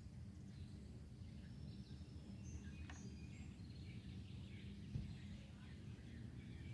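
Faint, scattered songbird chirps and calls over a steady low background rumble, with a soft thump about five seconds in.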